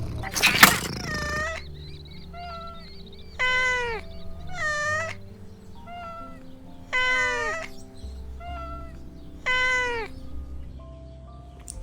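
Kittens meowing: about four loud, drawn-out meows with fainter ones in between, over soft background music. A brief noisy burst, the loudest moment, comes just under a second in.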